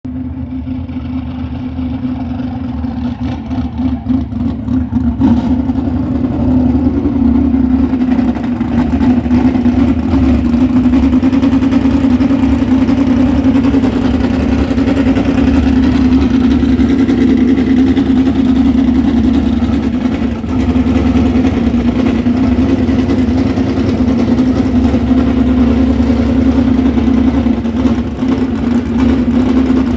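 A car engine running at a steady speed, with a constant hum and low rumble.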